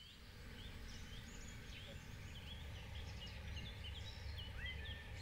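Small birds chirping faintly, with many short high calls repeating, over a low steady outdoor rumble.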